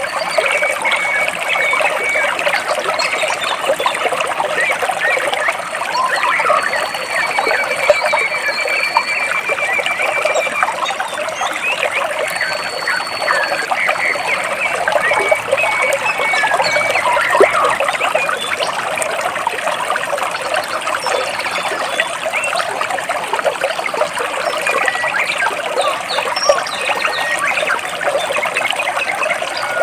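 Stream water trickling and splashing over large rocks, a steady dense babble, with a few high, held bird whistles here and there.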